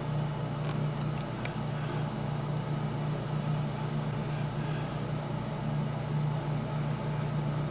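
A steady low hum with constant background noise, and a few faint light clicks in the first couple of seconds.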